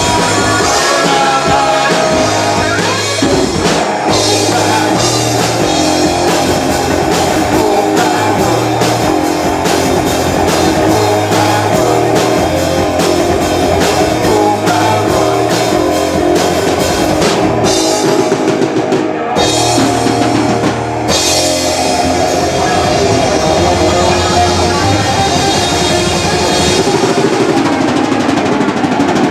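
A rock band playing live, with drum kit and electric guitar, loud and steady, with a strong beat.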